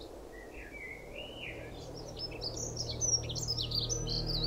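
Birds chirping and singing: a lower warbling phrase first, then a quick run of higher chirps, growing louder over a low steady hum.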